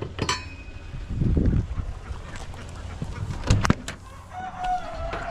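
Domestic ducks calling, with a few sharp knocks and clicks, and a long, slightly falling call from about four seconds in.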